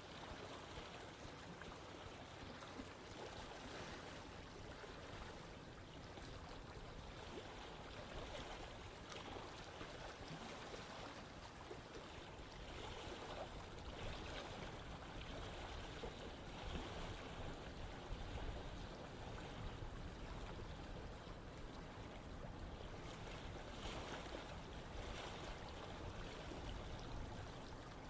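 Water of a stream running over rocks: a steady rush with small irregular splashes and gurgles.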